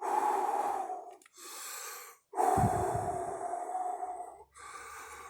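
A man breathing heavily: two long, loud breaths out, each followed by a quieter breath in.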